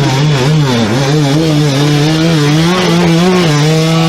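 Dirt bike engine revving hard, its pitch rising and falling repeatedly as the throttle is worked, then cutting off abruptly at the end.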